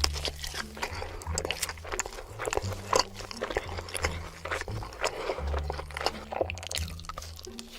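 Close-miked eating: crunchy bites and chewing, a rapid run of crackling clicks, over background music with a bass line that steps from note to note.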